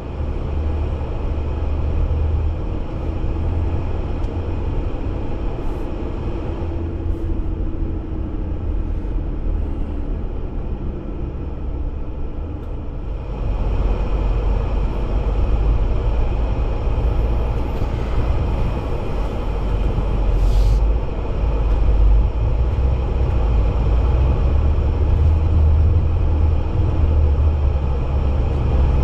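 A Jeep driving: a steady low rumble of engine and tyres that gets a little louder about halfway through.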